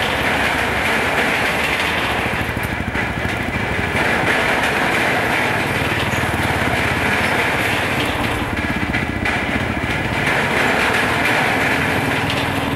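Royal Enfield Bullet single-cylinder motorcycle engine running under way, a steady, rapid pulsing of its exhaust. A faint steady hum joins in about two-thirds of the way through.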